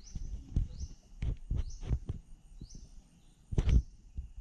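Low, irregular thumps and rustles of walking with the camera, the loudest one near the end, under a short high chirp repeated about once a second.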